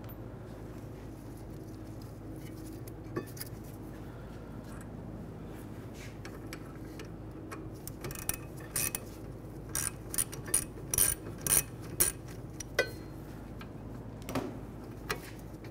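Light metallic clinks and taps as a caliper bracket bolt and its washer are worked out and handled with a socket. The clinks come scattered, thickest and loudest from about eight to thirteen seconds in, over a steady low hum.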